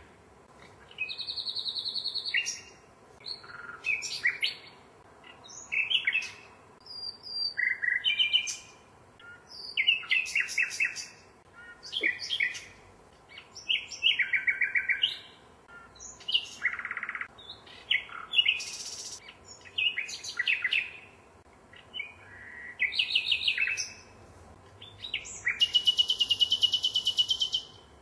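A songbird singing in separate, varied phrases about every two seconds. The phrases are rapid repeated-note trills and clear whistles, with short pauses between them, and a long fast trill near the end.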